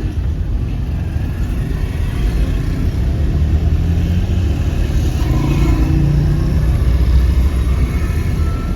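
Busy street traffic: a steady low rumble of vehicle engines, with a passing engine rising and falling about midway.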